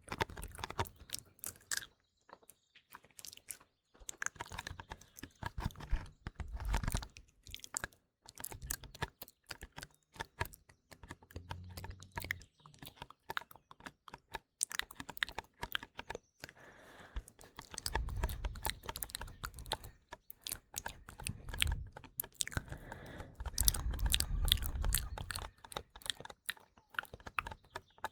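Close-miked ASMR mouth sounds, wet clicks and smacks, mixed with quick irregular tapping on a small box.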